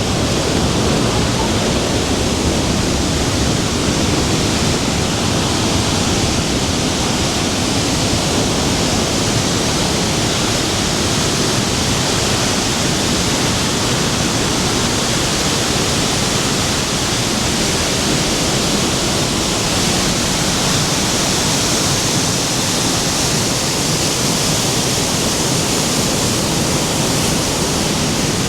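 The Rhine Falls waterfall, a steady loud rush of falling water that does not let up, a little brighter and hissier in its second half.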